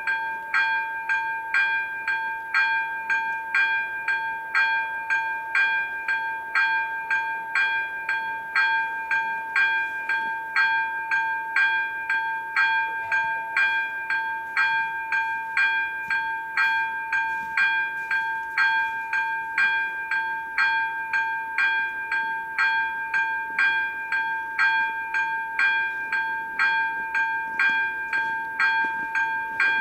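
Level crossing warning bell ringing evenly at about two strokes a second, each stroke ringing on into the next.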